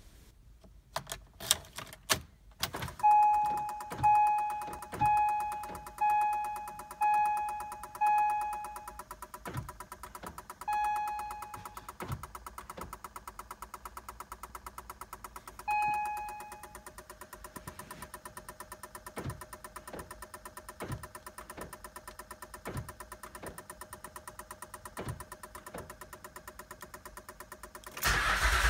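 A 2007 Acura MDX that won't start: a warning chime dings about once a second, seven times, then twice more, over fast, steady ticking and occasional sharper clicks. Near the end a much louder, rougher noise begins.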